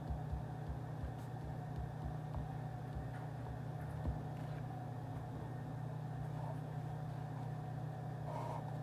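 Steady low hum of office or study-café room ambience, like ventilation running, with a few faint clicks.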